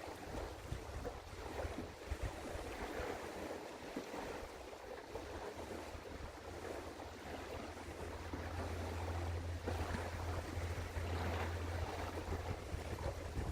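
Wind buffeting the microphone over a steady low drone from a passing container ship's engine; the drone grows stronger about two-thirds of the way through.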